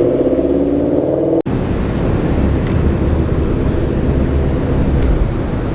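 Car engine running with a slowly rising tone, cut off by a brief dropout about a second and a half in, then the steady low rumble of a car driving along the road.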